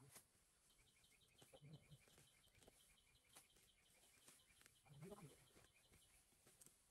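Faint, rapid run of short high chirps from a bird, about six a second, over the rustle and thuds of uprooted grass clumps being handled and tossed.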